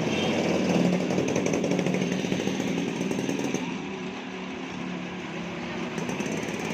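A small motor running steadily, louder for the first three and a half seconds and then dropping off.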